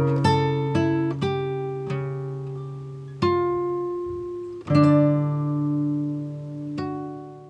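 Background music on plucked acoustic guitar: single notes and chords ringing out and slowing, the closing notes of the piece cut off at the end.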